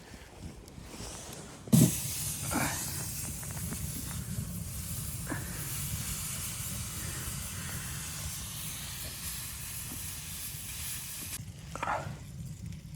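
A steady hiss that begins abruptly with a knock about two seconds in and cuts off suddenly near the end, over a low rumble.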